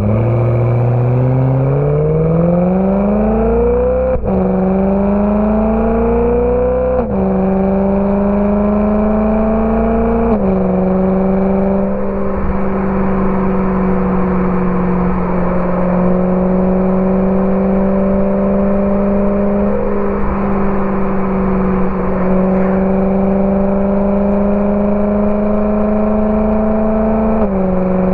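BMW E92 M3's V8 through a Borla ATAK exhaust, accelerating through the gears: the engine note climbs and drops at each upshift, three times in the first ten seconds or so. It then cruises at a steady, slowly rising pitch, dropping again near the end.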